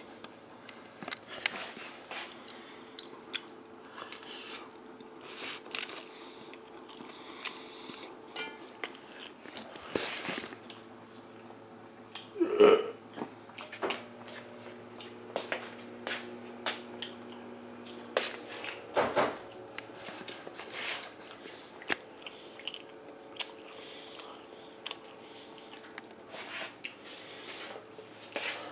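A person chewing and eating a spaghetti dinner close to the microphone, with scattered sharp clicks throughout. Two louder short pitched sounds come about 13 and 19 seconds in.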